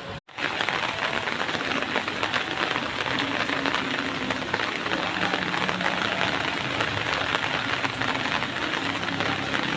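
Heavy rain falling steadily, a dense even hiss of drops; it starts abruptly a fraction of a second in, after a brief silence.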